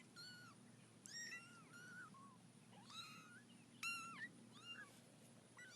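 A cat meowing faintly: a string of about seven short, high-pitched meows, each rising and falling.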